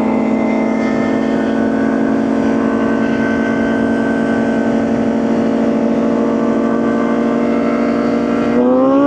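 Motorcycle engine running at a steady cruising speed, then its pitch rising near the end as the throttle opens.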